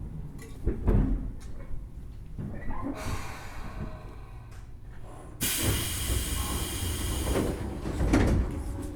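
Pneumatic hiss and thuds inside a Tobu 10000 series train car, typical of the sliding doors working at a station stop: a thud about a second in, a short hiss around three seconds, then a longer loud hiss from about five and a half seconds ending in a heavy thud, over the car's low rumble.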